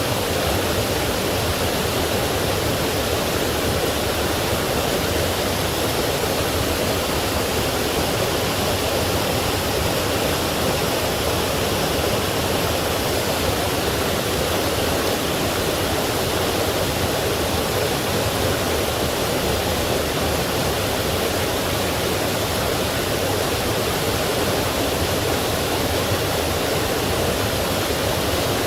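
Forest stream flowing steadily, a constant, even rush of running water.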